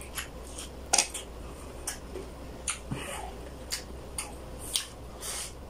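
Close-miked chewing of braised chicken: a string of wet lip smacks and mouth clicks, the loudest about a second in.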